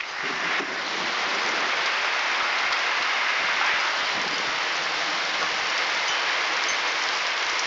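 Heavy rain pouring down in a steady hiss, swelling over the first second and then holding even.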